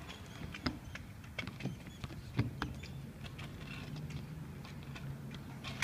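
Small skate wheels rolling on a ramp with a handful of light clacks and knocks, the rolling softest and steadiest in the second half.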